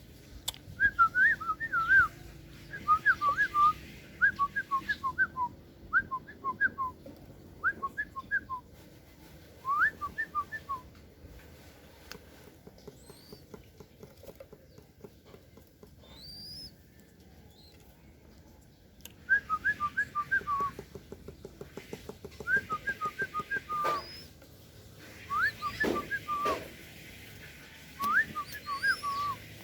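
Bird calls: bursts of quick, hooked whistled chirps, several notes to a burst, repeated every second or two, with a pause of several seconds in the middle.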